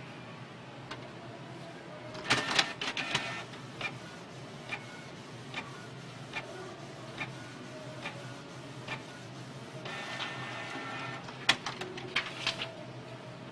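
Canon G2000 inkjet printer running its mechanism: two spells of whirring and clattering with sharp clicks, about two seconds in and again near the end, and between them a regular tick a little more than once a second.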